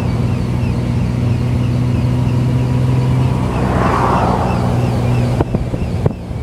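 A running engine with a steady low hum; a rushing swell rises and fades about four seconds in, and a few sharp clicks come near the end as the level drops.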